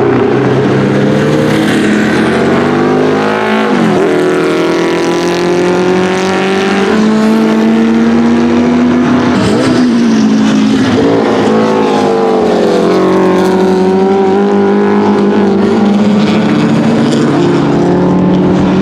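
Porsche 904 GTS's 2-litre Type 587/3 four-cylinder boxer racing engine running loud under load. Its pitch drops sharply and climbs back about four seconds in and again near ten seconds, then eases down slowly.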